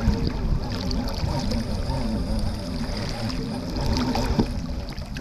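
Water sloshing against a sit-on-top fishing kayak at sea, with a steady low rumble of wind on the microphone.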